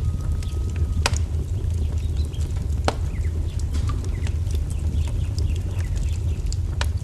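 Wood fire crackling over a steady low roar, with many small ticks and sharp pops about a second in, near three seconds and near the end. Faint bird calls sound above it, including a thin held whistle that stops about a second in.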